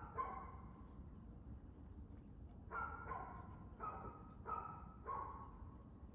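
A dog barking: one bark at the start, then a quick run of five barks about three seconds in.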